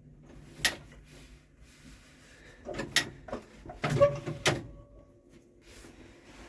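Five sharp clicks and knocks spread over a few seconds, the loudest two close together near the middle, over a faint low steady hum.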